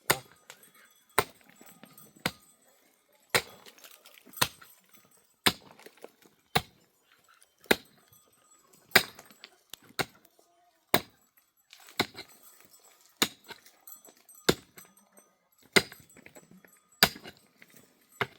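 A steady series of sharp knocks, about one a second, some fifteen strikes in all, with quiet between them.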